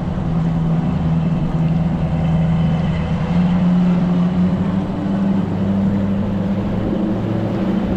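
Fishing boat's engine running steadily under way, a loud drone that rises a little in pitch about three seconds in.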